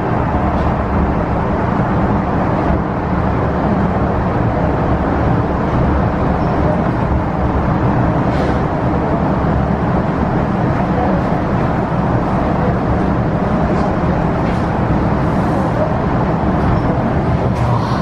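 Hong Kong MTR Tsuen Wan Line electric train running: a steady rumble with a few faint clicks.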